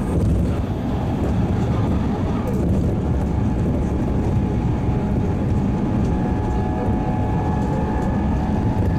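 JR Central 211 series electric train running at speed, heard from inside a passenger car: a steady rumble of wheels on the rails with traction motor hum. A faint high whine comes in about six seconds in.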